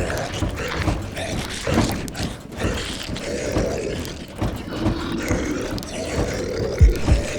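Sound-designed horror ambience: steady rain-like hiss under low, wavering zombie groans and moans. Near the end a deep heartbeat thump begins, in lub-dub pairs about once a second.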